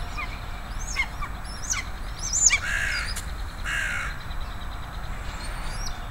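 Wild birds calling in woodland: a few short, sharp chirps, then two harsh, screeching calls about a second apart.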